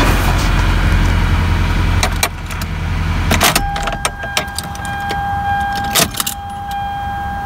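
Toyota Camry 2.2-litre four-cylinder idling on its newly fitted timing belt, then switched off about three and a half seconds in. Keys jangle and click in the ignition, and once the engine stops a steady warning buzzer tone sounds.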